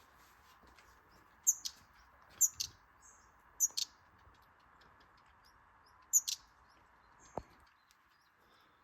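A small songbird chirping: four short, high chirps a second or more apart, some doubled in quick pairs, with a couple of fainter calls in between.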